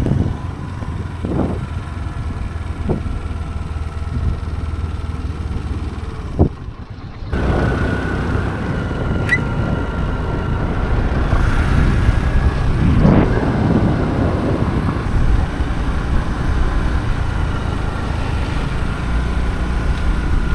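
Motorcycle engine running while riding, with wind rushing over the microphone. The sound drops out briefly about seven seconds in, then the engine and wind carry on with a faint steady whine.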